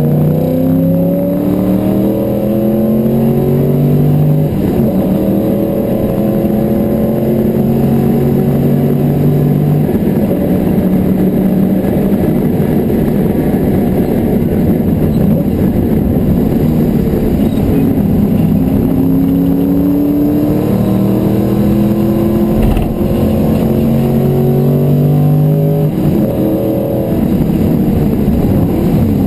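Porsche 928's V8 engine heard from inside the cabin at racing speed. Its pitch climbs as the car accelerates through the gears and drops at each upshift. There is one short thump about two-thirds of the way through.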